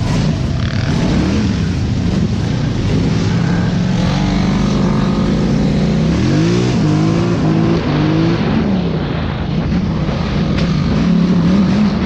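Off-road vehicle engine running under the rider. It revs up sharply about six seconds in, climbs twice more, then settles back to a steadier note.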